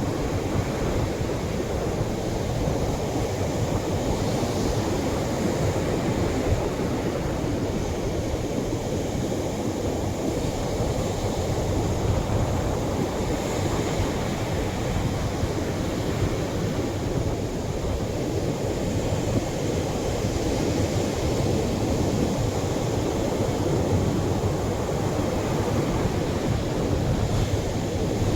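Atlantic surf breaking on a beach, fairly heavy waves: a continuous low rushing roar that swells slightly every several seconds.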